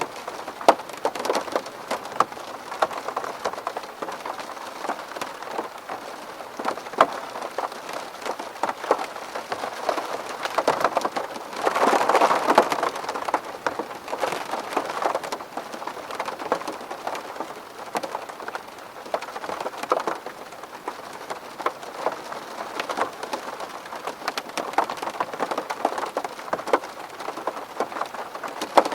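Rain falling on a window pane: a steady hiss of rain with many small drop impacts. About twelve seconds in it briefly grows heavier.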